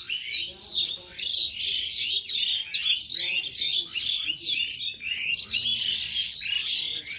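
Birds squabbling: a dense, overlapping run of quick, high chirps, many of them falling in pitch.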